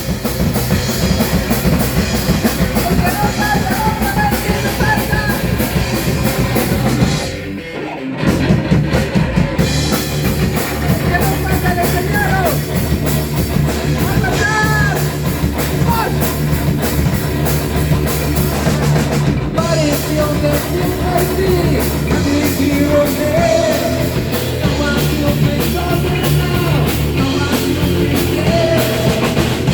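Loud rock music from a band with a drum kit, playing steadily; the music drops out briefly about seven seconds in, then comes back in at full level.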